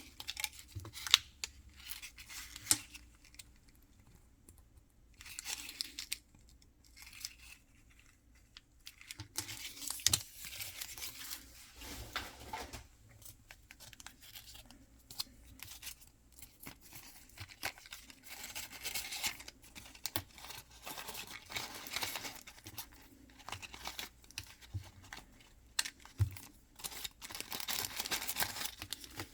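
Mystery-box packaging being torn and crinkled open by hand, in irregular stop-start bursts with a few sharp clicks and taps in between.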